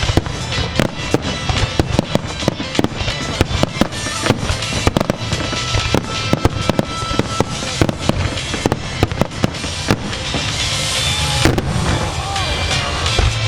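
Starmine fireworks display: rapid volleys of aerial shell bursts, many reports a second over a continuous rumble, with the show's music playing beneath. A denser hissing crackle swells about ten seconds in.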